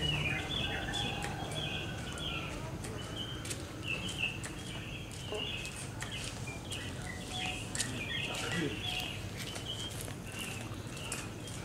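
Birds chirping in many short, repeated calls, with scattered faint clicks.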